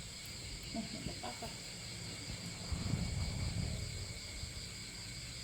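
Chickens clucking over a steady high chorus of insects.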